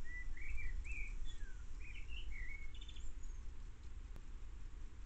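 A songbird singing a run of short warbling phrases for the first two and a half seconds, with a brief higher trill about three seconds in, over a steady low rumble.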